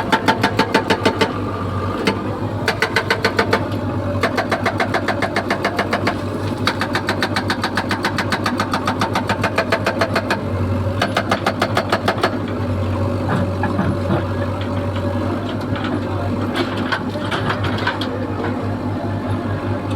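Excavator diesel engine running steadily, with a fast, even clattering that comes and goes in stretches of a second or more.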